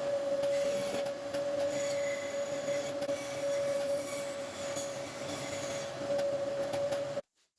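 Electric power tool running at steady speed with a grinding, rasping noise over a constant motor whine; it cuts off abruptly near the end.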